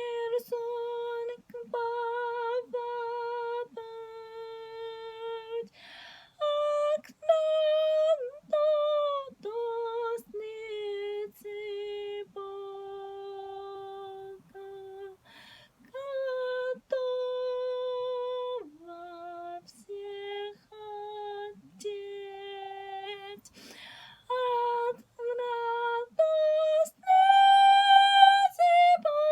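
A high voice singing a slow, unaccompanied melody in held notes, with short breaks between phrases; the last phrase near the end is higher and louder.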